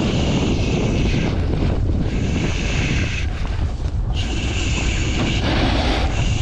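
Wind buffeting the microphone during a snowboard descent. A snowboard's edge hisses and scrapes across wet snow in spells of about a second, turn after turn.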